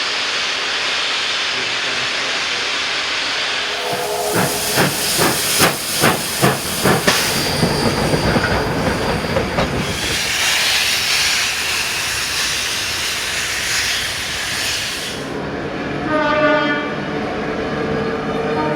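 Steam locomotive hissing steam, then giving a run of about eight sharp exhaust chuffs over three seconds, followed by more loud hissing. In the last few seconds the sound changes abruptly to a steady pitched hum with a short pitched note.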